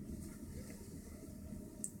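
Low, steady rumbling noise with one short sharp click near the end.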